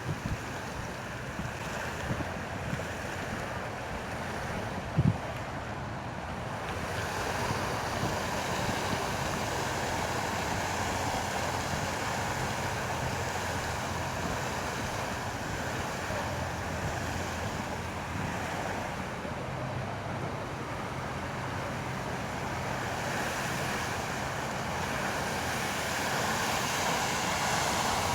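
Wind rushing over the action camera's microphone on a moving motorcycle, with the Yamaha MT-03's parallel-twin engine running steadily underneath. There is a brief knock about five seconds in.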